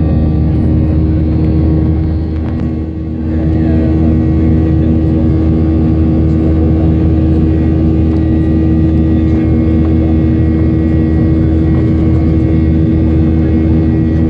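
Boeing 737-800's CFM56 jet engines running steadily, heard from inside the cabin as a loud, even drone with steady low tones. The level dips briefly about three seconds in.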